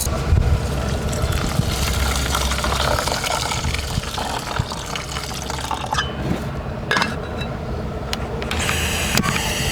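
Water pouring and splashing into a container, with a few short knocks or clinks about six and seven seconds in.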